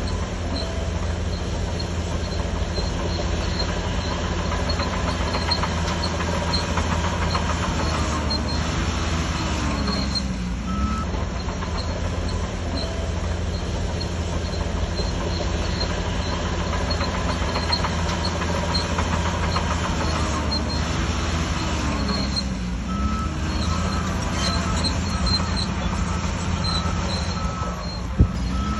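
Shantui DH17C3 crawler bulldozer's diesel engine working steadily under load, with metallic squeaking from its steel tracks. Twice, about a third of the way in and again about two thirds of the way in, the engine note sags and then climbs back.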